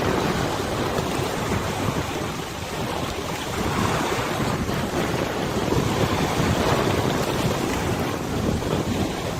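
Wind buffeting the microphone over the rush and lapping of river water, in uneven gusts.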